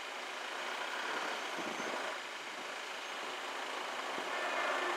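Class 158 diesel multiple unit running through at speed: a steady rushing noise that grows a little louder near the end.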